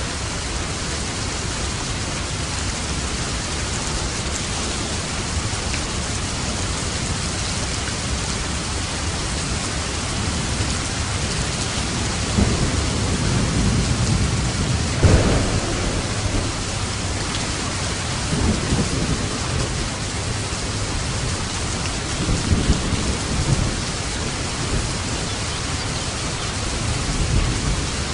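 Steady heavy rain of a thunderstorm, with rolls of thunder rumbling through it, the loudest about halfway through and further rumbles later on.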